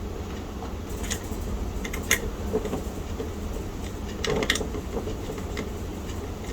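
A small screw being driven with a screwdriver into a clip-on speed nut on a metal bracket: a few scattered metallic clicks and scrapes, over a steady low hum.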